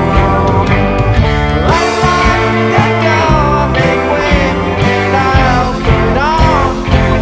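Rock band recording: electric guitars, bass and drums playing, with a voice singing lines that bend in pitch.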